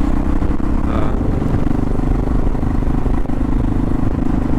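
Yamaha adventure motorcycle's engine running at a steady, unchanging pitch while under way, over a constant rush of wind and road noise.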